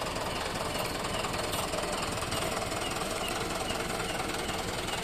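Truck diesel engine running steadily, with a faint short chirp repeating about twice a second.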